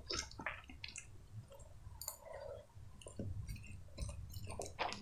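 Quiet close-up chewing with soft wet mouth clicks, and a fork cutting into a fried fish cutlet.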